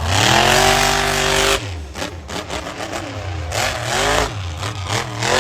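Monster truck engine revving hard: the pitch climbs and holds at high revs for about a second and a half, then drops off sharply, followed by repeated throttle blips that swing the engine up and down.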